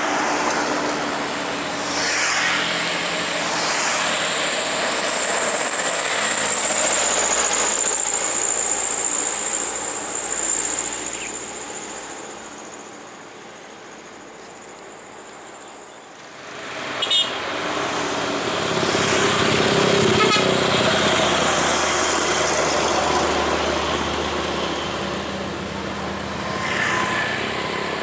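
Heavy trucks and other vehicles passing on a highway hill, with engines and tyres swelling and fading as each one goes by. A high whine runs through the first half, traffic eases to a quieter lull in the middle, and a short sharp toot comes just before it builds up again.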